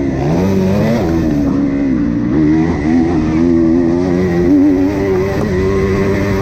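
Motocross motorcycle engine revving hard, its pitch climbing and dropping again and again as the throttle is worked and gears change.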